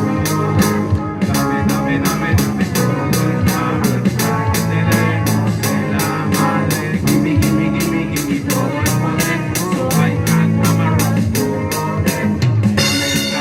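A live rock band playing an instrumental passage: guitar and bass over a drum kit, with a steady cymbal beat of about three to four strokes a second. The cymbals get brighter near the end.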